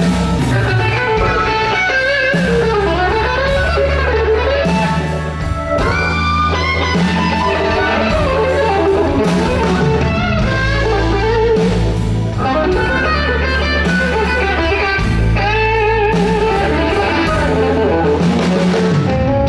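Live blues band playing an instrumental passage: electric guitar lead with bending notes over bass guitar and drum kit.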